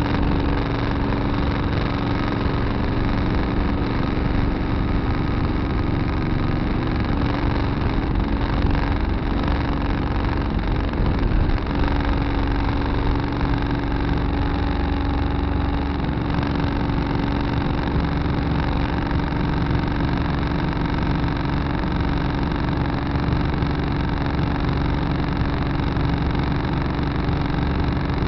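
Tractor engine running steadily, heard from inside the cab. Its note wavers briefly about a third of the way through, with a couple of small knocks.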